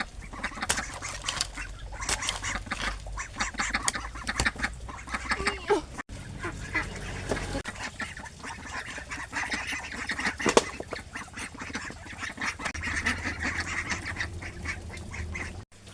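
A flock of ducks quacking and chattering, mixed with many small clicks and rustles, with two brief breaks in the sound.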